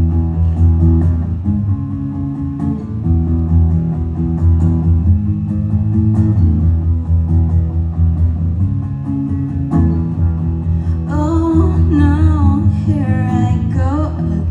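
Live solo performance: a guitar plays the song's intro, and a singing voice with a wavering vibrato comes in about eleven seconds in.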